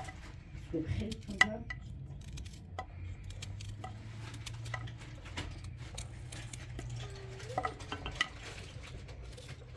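Spoons and dishes clinking: a scatter of light, irregular taps and clinks, as in stirring.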